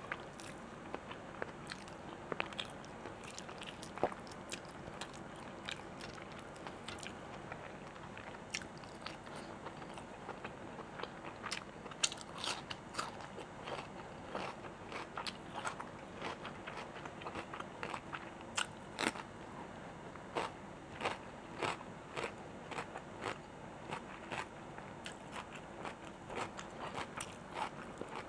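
Close-miked eating: wet chewing and smacking with frequent crunchy bites, many small clicks and crackles, busier in the second half.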